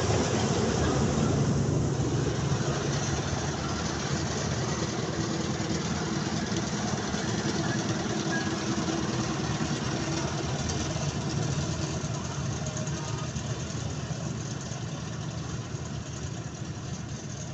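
Mahindra 275 XP Plus tractor's diesel engine running steadily, slowly growing quieter.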